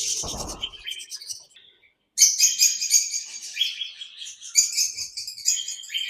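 Many small parrots in an aviary chirping and chattering together, a dense run of quick high calls that starts about two seconds in after a brief lull. A short low rumbling noise sounds in the first second.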